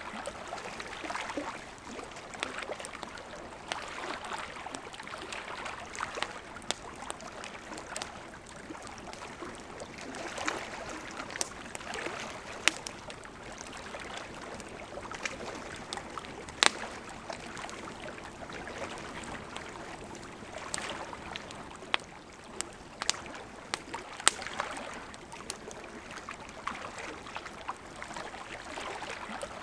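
Wood campfire burning: a steady rushing hiss of flame that swells and eases, with frequent sharp crackles and a handful of louder pops.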